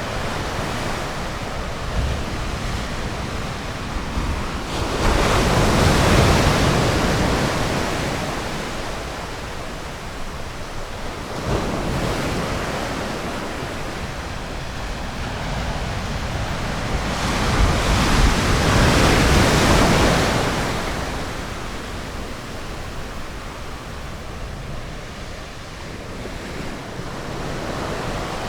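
Ocean surf breaking on a beach, a steady wash with two larger waves building and fading, one about five seconds in and one about seventeen seconds in. Some wind buffets the microphone.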